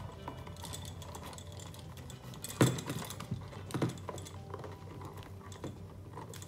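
Scattered light clicks and taps of hands handling electrical wires and splice connectors in a switch box, with two louder sharp knocks about two and a half and four seconds in.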